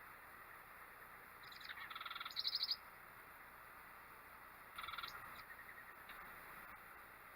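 A bird giving a rapid, trilled chattering call twice, the first about a second and a half in and the second about five seconds in, over a faint steady hiss.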